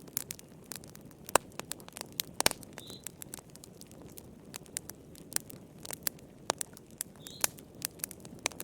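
Fireplace fire crackling: irregular sharp pops and snaps, several a second, over a soft low rushing of the flames.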